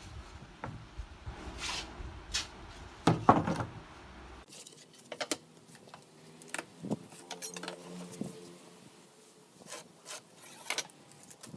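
Workshop handling sounds of wood: scattered knocks, taps and rubbing. A low rumble runs underneath until it stops abruptly about four seconds in.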